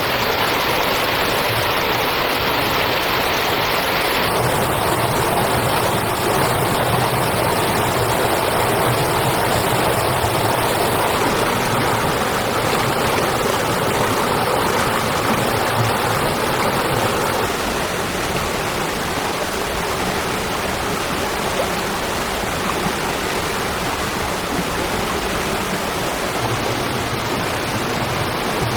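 Steady rushing noise with no distinct events, changing abruptly in tone about four seconds in.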